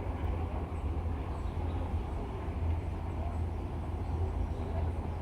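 Steady low rumble of an MTR East Rail line electric train running at a station platform, with no separate knocks or horn.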